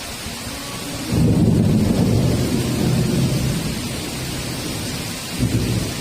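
Heavy rain hissing steadily while a thunderclap breaks in about a second in as a loud, deep rumble that rolls on for a few seconds and fades, with a second short rumble near the end.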